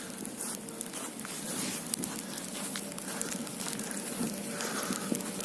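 Ice pellets falling and pattering on hard surfaces: many irregular sharp ticks and crackles over a faint steady hum.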